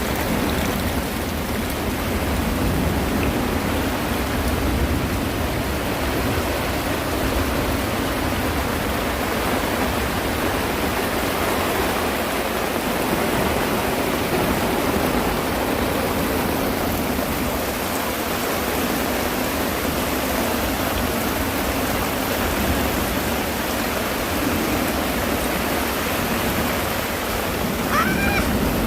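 Heavy rain and strong wind, a steady loud rush of noise with no breaks. Near the end a short high sound rises in pitch once over the noise.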